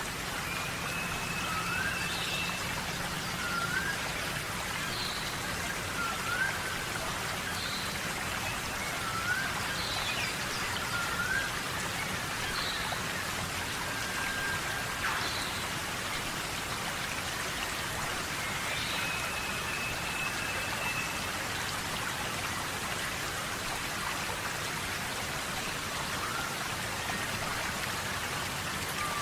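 Steady jungle rain falling, an even hiss of drops. Short rising calls from a small animal repeat every second or two over it, with a couple of longer thin whistles.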